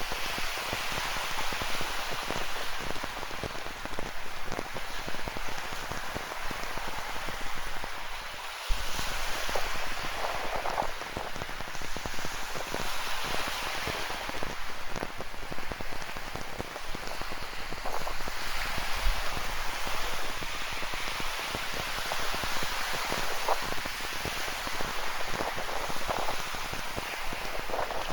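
Rain falling steadily, with a dense patter of individual drops landing close by.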